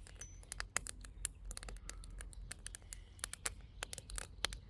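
Wood campfire of sticks and bark crackling, with irregular sharp snaps several times a second, a fire that has just caught and is burning up.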